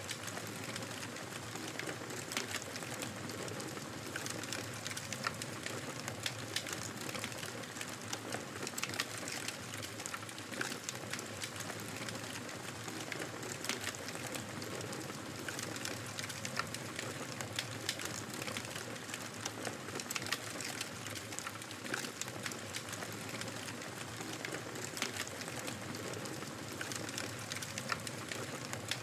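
Wood fire crackling in a fireplace: a steady soft hiss dotted with frequent, irregular sharp pops and snaps.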